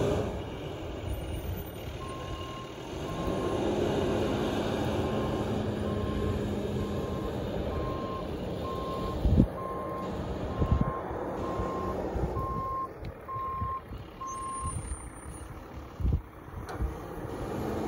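A vehicle's reversing alarm beeping about once a second, a single steady tone that stops near the end, over a low engine hum, with a few sharp knocks.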